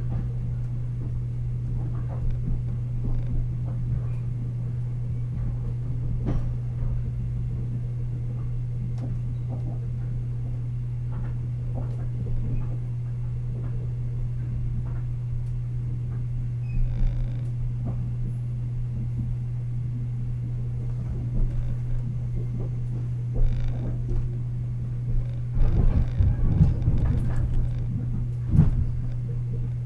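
Inside a moving TRA EMU100 electric multiple unit: a steady low hum runs under scattered knocks and rattles of the car over the track. The knocking grows louder and busier near the end.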